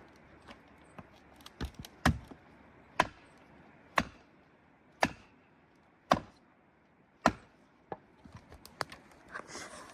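Heavy blows struck into wood, about one a second, six loud strikes in a row with lighter knocks before and after.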